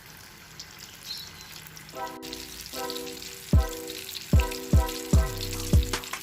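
Food sizzling as it fries in a pan. About two seconds in, background music comes in over it with a heavy, deep beat, and the beat is the loudest thing.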